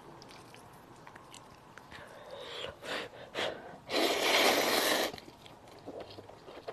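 A loud slurp lasting about a second, about four seconds in, as food is sucked in from the bowl. It comes after a few short, softer mouth sounds and is followed by small clicks from eating.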